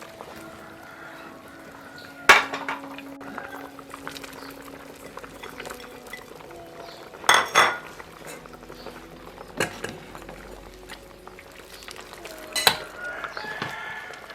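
Cookware clatter: metal utensils and pots or dishes knocking and clinking a handful of times, with a quick double clink in the middle, over a low steady background.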